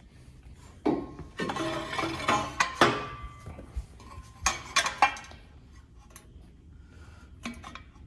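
Metal parts clanking and ringing as a trimmed metal motor plate is set in place and tried for fit: a run of sharp clanks in the first half, then a couple more near the end.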